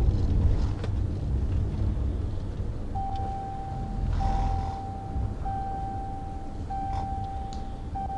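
Road and engine noise inside a moving police patrol car, a steady low rumble. From about three seconds in, a steady electronic tone sounds in a string of roughly one-second beeps with short breaks.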